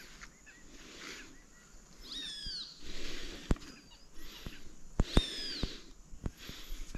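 A bird calling twice, each a clear arching call that falls in pitch, about three seconds apart. Several sharp clicks come in between and after, louder than the calls.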